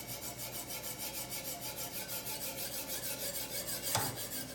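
Sharpening stone of a guided knife sharpener rubbed in quick, regular strokes along the edge of a large steel kitchen knife, grinding in a 15-degree bevel to raise a burr. The rasping stops at the very end.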